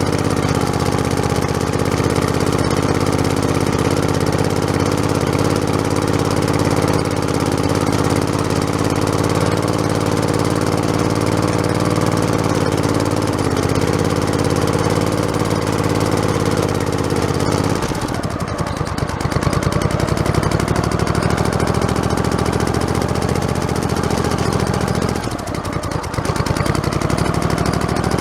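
Small lawn tractor engine running steadily while driving, heard close up from the front bumper with a rattly, shaking quality. About two-thirds of the way through its note changes and settles lower, and it dips briefly near the end before picking back up.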